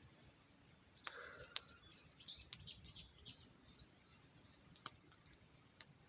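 A small bird calls in a rapid series of short, high chirps for about three seconds, starting about a second in. A few sharp clicks or pops land in and after the run.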